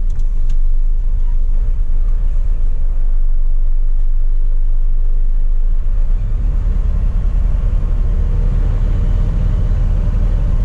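Scania P420 truck's diesel engine running, heard from inside the cab. Its low rumble grows heavier about six seconds in.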